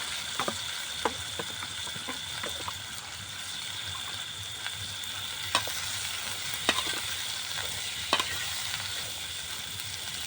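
Shredded cabbage being stir-fried in hot oil in a pan: a steady sizzle, broken by a few sharp clicks of the stirring.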